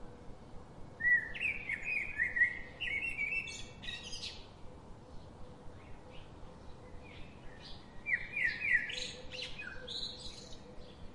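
Birdsong: quick runs of chirps and short whistled phrases in two bursts, one about a second in and another about eight seconds in.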